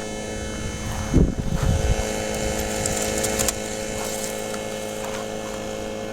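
Steady mechanical hum from a small motor, with a gust of low rumble about a second in.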